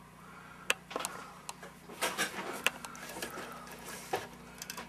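Light clicks and rattles of test leads and clips being handled and hooked up to an amplifier on the workbench, with a cluster of taps about two seconds in, over a faint steady low hum.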